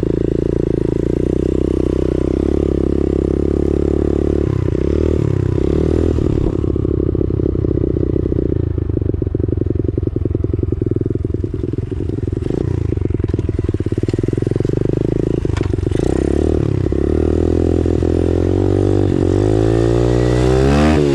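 X-Pro Storm 125cc pit bike's single-cylinder four-stroke engine running while ridden, its engine speed changing several times, with a quick rise and fall in pitch near the end.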